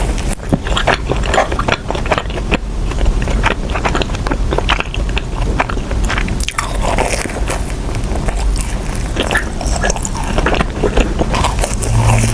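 Close-miked biting and chewing of a warm, soft glazed doughnut, with a steady run of wet, sticky mouth clicks and smacks.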